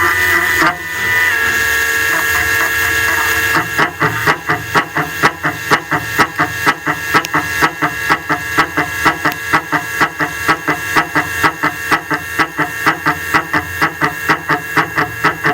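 Four-axis CNC milling machine cutting metal: a steady high-pitched cutter whine over a hiss, which about four seconds in turns into a regular pulsing, about three times a second.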